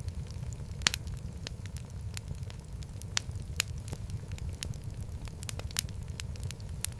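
Wood fire burning in a fireplace: a steady low rumble of flames with irregular sharp crackles and pops, several of them louder, such as one a little under a second in.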